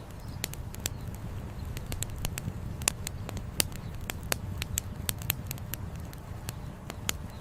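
Wood campfire crackling, with irregular sharp pops and snaps of burning firewood. Under them runs a steady low rushing of flowing river water.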